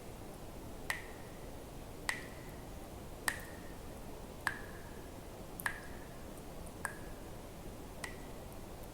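Water drops falling one at a time into water, about one every 1.2 seconds. Each lands with a sharp plink and a short ringing tone, seven drops in all, over a faint steady hiss.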